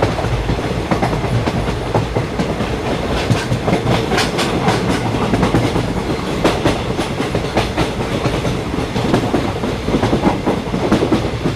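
Train running on the track: a steady rumble with wheels clattering irregularly over the rails.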